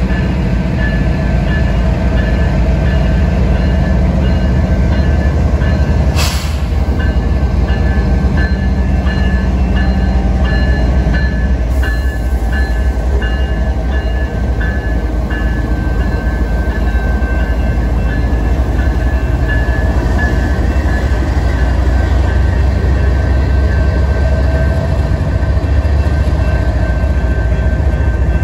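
CPKC GE ES44AC diesel locomotive passing close by at a grade crossing, its engine rumbling, then autorack freight cars rolling over the rails. A crossing bell dings steadily about twice a second.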